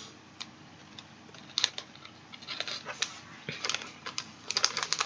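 Handling a powder packet and plastic tray of a Japanese candy kit: scattered light clicks and crinkles that grow busier toward the end.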